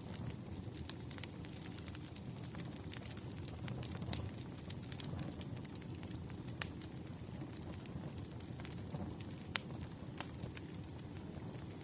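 Wood fire burning: a steady low rumble of flames with irregular crackles and a few sharper pops of burning logs.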